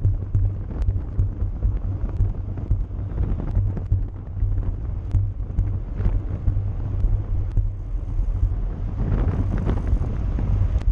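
Wind buffeting the microphone of a moving bicycle, a steady low rumble with scattered faint clicks.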